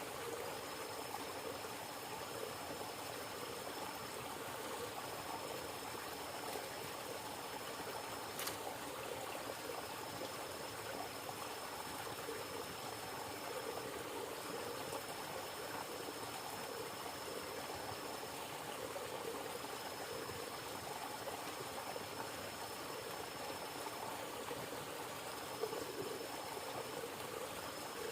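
River water flowing steadily, a continuous trickling and running. A single sharp click comes about eight seconds in.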